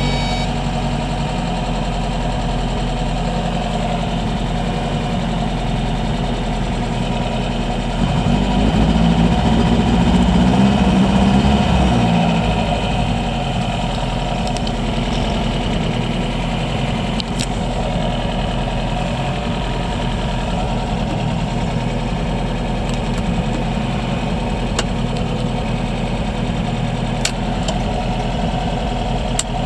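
1979 MGB Roadster's four-cylinder engine idling steadily, warming up after a cold start. About eight seconds in it runs louder for around four seconds, then settles back to an even idle.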